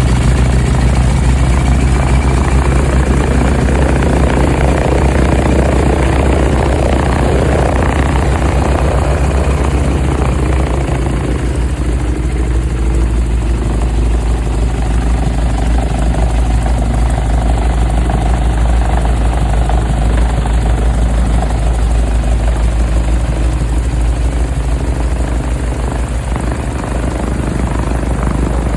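Light airplane's piston engine and propeller running after its first start of the season, following a long winter layup. The engine is already running loudly and steadily, and its note shifts about eight to ten seconds in.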